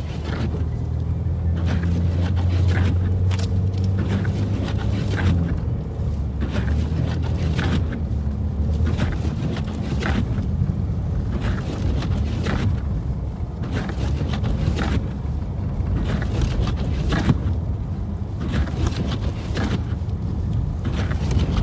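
A vehicle engine running with a steady low hum, strongest for the first six seconds or so, under frequent short irregular rushes of noise.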